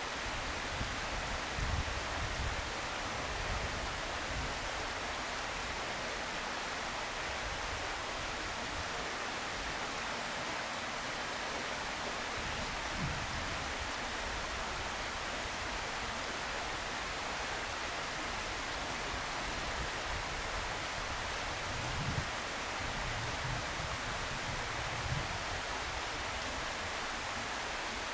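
Steady outdoor hiss with no distinct event, broken by a few brief low rumbles of wind on the microphone.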